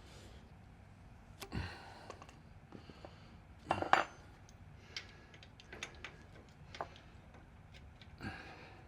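Metal hand tools clinking and knocking against metal while bolts are worked loose from a car chassis: a scatter of separate sharp clicks and clanks, the loudest a quick cluster about four seconds in.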